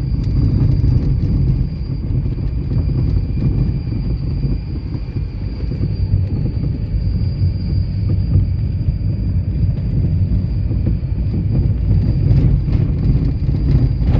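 Steady low rumble of a moving vehicle, with a thin, steady high whine above it.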